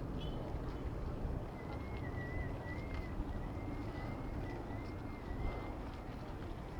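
Steady rumble of wind and road noise on a moving bicycle's camera, with a thin, slightly wavering whistle-like tone for about four seconds in the middle.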